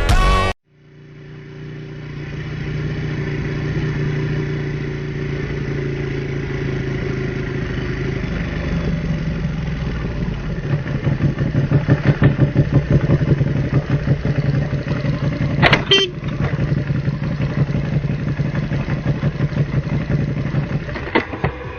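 Motorcycle engine running, pulsing quickly from about nine seconds in as it is ridden harder. A short horn blast sounds about sixteen seconds in.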